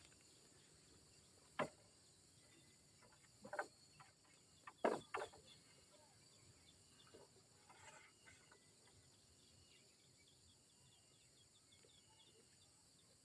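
Faint, steady chorus of insects such as crickets, with four or five short knocks in the first half.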